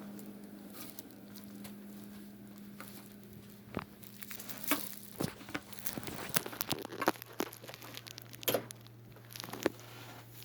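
Plastic bag being handled, crinkling and rustling, with scattered sharp crackles and knocks that get busier about four seconds in, over a steady low hum.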